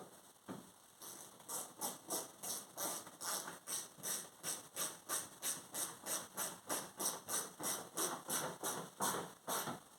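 Hand ratchet clicking in a steady rhythm of about three swings a second while T20 Torx screws are driven home.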